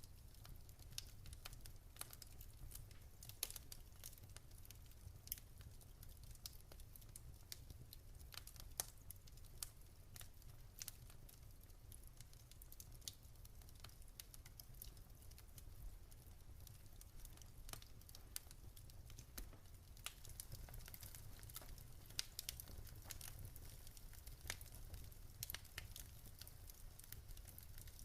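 Wood fire in a fireplace crackling quietly: irregular small pops and snaps over a low steady rumble.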